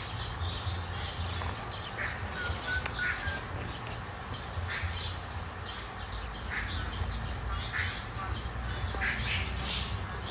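Birds calling over and over outdoors, short harsh calls about once a second with a few brief chirps, over a low steady rumble.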